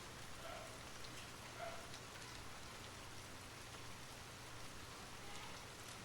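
Steady rain falling and pattering on surfaces, with a few individual drops standing out now and then.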